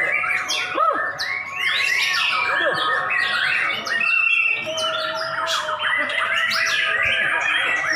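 White-rumped shamas (murai batu) singing over one another: a dense, continuous mix of whistles and rapid trills from several birds at once.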